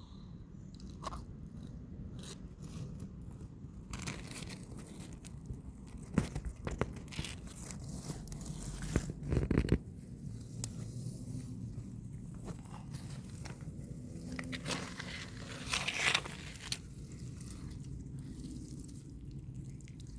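Common snapping turtle biting and chewing a piece of banana: scattered short crunching clicks, with louder crunches about nine seconds in and again around sixteen seconds.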